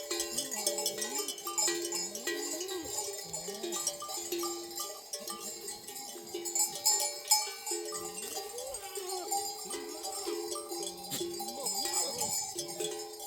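Livestock bells on a flock of sheep and goats ringing over and over, with the animals bleating now and then among them.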